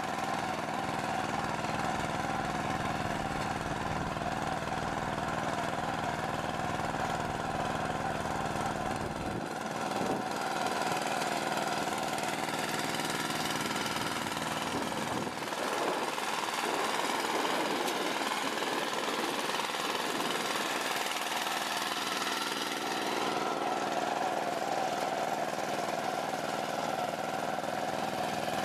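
Engine-driven farm machinery running steadily. The low rumble drops away and the sound changes character about a third of the way in, and again about halfway through.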